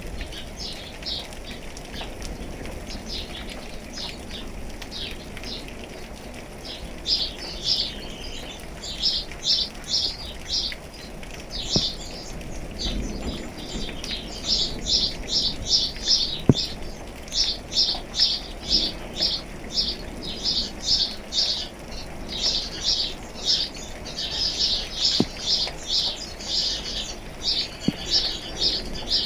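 A songbird calling in fast series of short, high notes, about three a second, starting about a quarter of the way in and continuing to the end, over steady rain with a few single drips.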